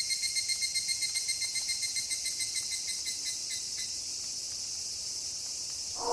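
Night insects, cricket-like, chirping in a fast even pulsing trill over a steady high hiss of night ambience; the chirping fades out about four seconds in.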